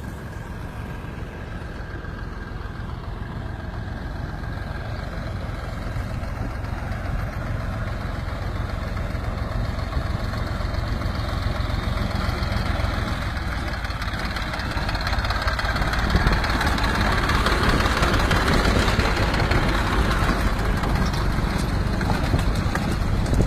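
A vehicle engine running with a steady low rumble, growing louder through the clip and joined by a rushing noise about two-thirds of the way in.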